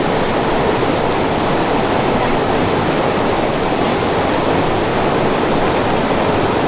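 Stream water flowing fast over rocks, a steady, even rushing noise without breaks.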